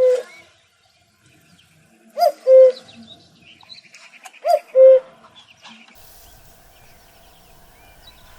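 A bird repeating a low two-note call three times, about two seconds apart: a short higher note, then a longer lower one. Faint chirping of small birds sits behind it.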